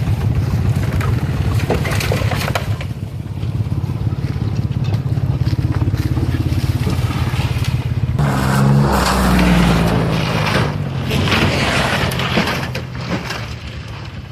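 Vehicle engine running steadily, then a louder rush of noise with scraping and crunching from about eight seconds in that fades toward the end, as the vehicle drives over rough ground.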